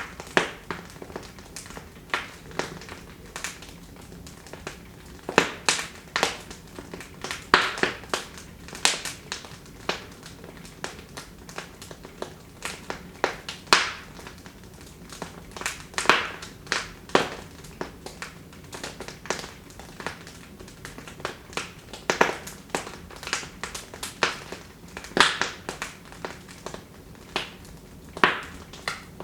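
Wood fire in a fireplace crackling and popping: irregular sharp snaps, several a second in clusters, over a low hiss.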